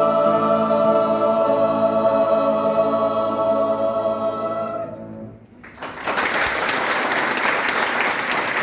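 Choir holding the final chord of an anthem, which dies away about five seconds in; a moment later the audience breaks into applause.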